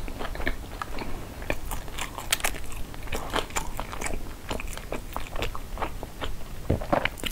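Close-miked chewing and biting of sushi rolls: a dense run of crisp crunches and wet mouth clicks.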